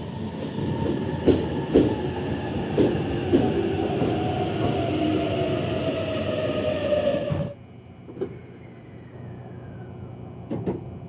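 E657 series Tokiwa limited express train pulling in alongside the platform, its wheels clacking over rail joints and its motors whining down in pitch as it slows. About seven and a half seconds in, the sound cuts to a much quieter station hum with a couple of faint clanks.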